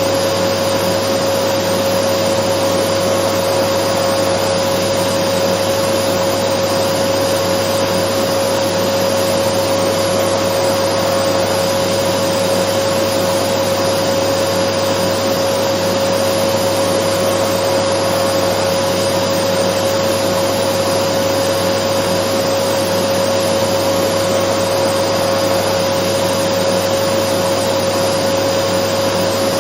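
Dyson vacuum cleaner running steadily: a loud, even rush of air with a constant motor whine, unchanging throughout.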